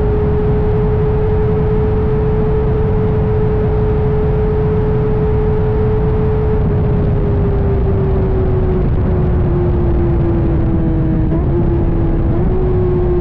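Kawasaki ZX-25R's 250 cc inline-four with an Arrow titanium exhaust running at high revs under way, a steady high engine note that sinks slowly in pitch, with a couple of brief jumps in pitch near the end.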